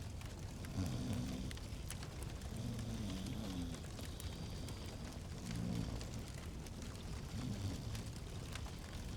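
Fireplace crackling: scattered sharp pops and snaps over a steady low rumble.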